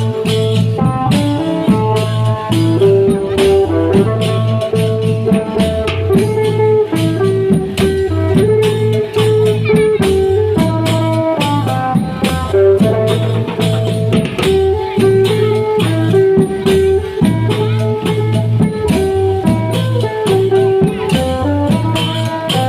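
Thai klong yao long-drum procession band playing: a steady repeating drum beat with small cymbals ticking throughout, under a melodic lead line.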